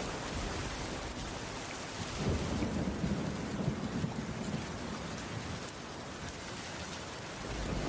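Steady rain falling on a wooden roof. A low rumble of distant thunder swells about two seconds in and dies away a few seconds later.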